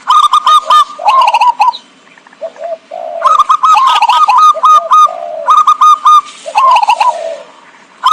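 Zebra dove (perkutut) cooing: bursts of quick, staccato coo notes, with high, rapid chirping over them and a short lull about two seconds in. A lure call recording for zebra doves.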